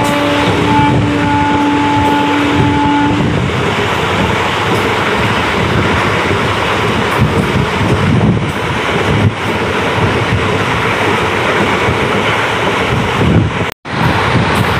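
Passenger train running at speed, heard from an open carriage window: a steady rush of wheel and track noise with wind buffeting the microphone. The train's horn is holding one long note at the start and stops about three seconds in. The sound cuts out for a split second near the end.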